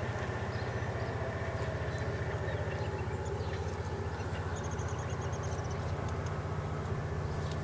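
EMD diesel-electric locomotive engine running steadily with a low, even throb. A short run of faint high ticks comes in about halfway through.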